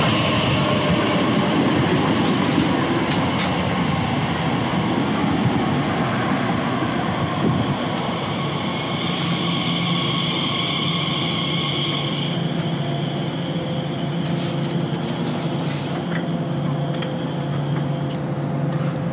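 Train moving slowly through the station, with a steady rumble of wheels on rail under a motor whine of several tones. One tone falls in pitch near the start, and higher and lower tones come in about halfway through.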